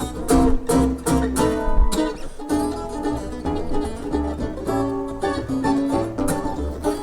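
An acoustic string band trio playing a tune live, with many quickly picked notes on plucked strings over a steady low rhythm.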